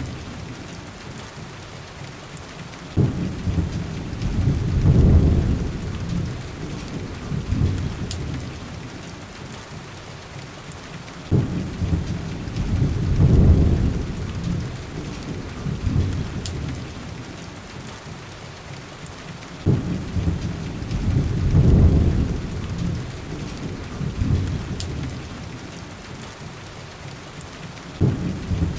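Steady heavy rain with rolling thunder. A deep rumble breaks in suddenly about every eight seconds, four times in all, then swells and dies away over several seconds.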